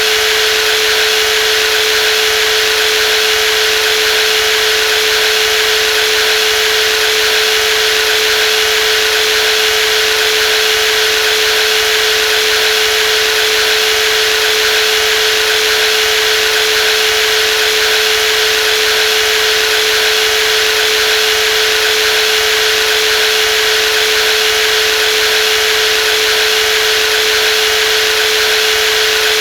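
Brushless jigsaw running continuously at a steady speed: a loud, even hum of unchanging pitch over a constant hiss.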